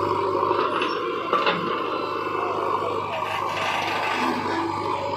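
Diesel engines of a backhoe loader and tractor running steadily at work, with a brief knock about a second and a half in.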